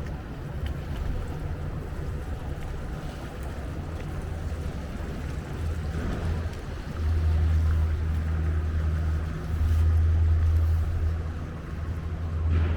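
Wind buffeting the microphone: a low, gusting rumble that swells twice in the second half, over a faint hiss of street noise.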